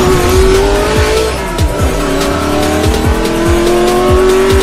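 Sound effect of a race car engine revving up, its pitch climbing, dipping about one and a half seconds in and then climbing again, laid over music with a steady thumping beat.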